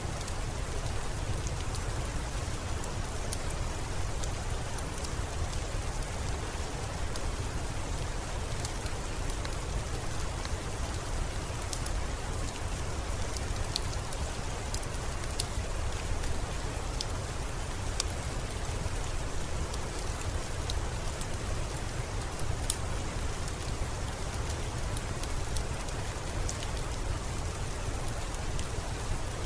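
Steady rainfall with a constant low rumble underneath and scattered sharp ticks throughout.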